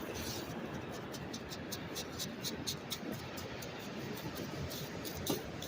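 Sand and shells being dug or sifted by hand to find a metal detector target, heard as quick scratchy rustles about three or four a second over a steady hiss. The rustles stop about three and a half seconds in, and one sharper scrape comes near the end.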